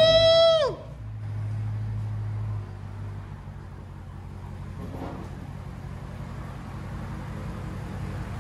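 Dodge Challenger Hellcat's supercharged 6.2-litre V8 through a straight-piped true dual exhaust: the end of a rev, its high supercharger whine falling away within the first second, then the engine settling to idle. The idle hangs a little high for a second or two, then drops lower and steadies.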